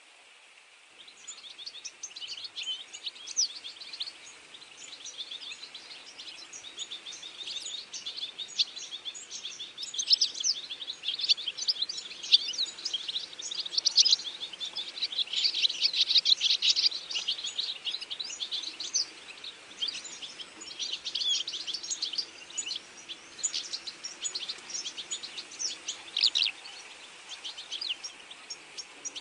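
Many birds chirping and calling together, a dense chorus of short, high chirps and trills that starts about a second in.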